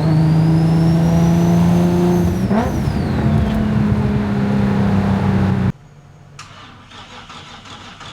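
Big-turbo Infiniti G35's V6 pulling hard, with a high turbo whine that rises for about two and a half seconds and then falls away as the engine note steps up in pitch. A little past halfway it cuts off abruptly to a much quieter, evenly ticking mechanical noise.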